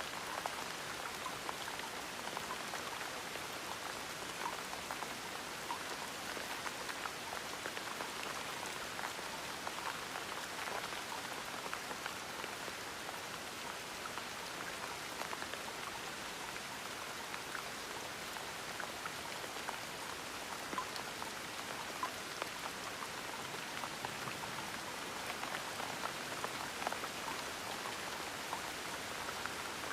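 Steady gentle rain: an even hiss of rainfall with scattered individual drops pattering on a surface.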